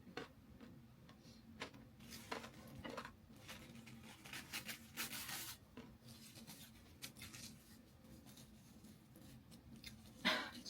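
Eating sounds from chicken leg pieces: bites, tearing and crunchy chewing, a scatter of small crunches and clicks. A longer crackly crunch comes about halfway through, and a louder one near the end.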